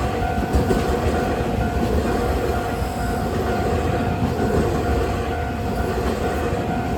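A train passing over a level crossing, its wheels and cars rumbling steadily. Over it the crossing's warning signal rings as a steady, repeating tone.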